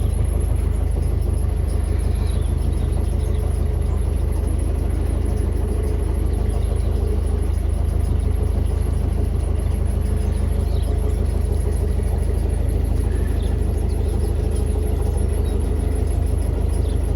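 Narrowboat's diesel engine running steadily under way, a continuous deep rumble with a thin high whine above it.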